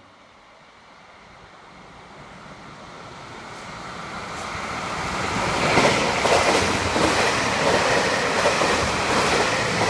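JR Hokkaido class 733 electric multiple unit approaching and passing at speed. Its sound builds steadily for about five seconds, then turns into a loud clatter of wheels over rail joints as the cars go by.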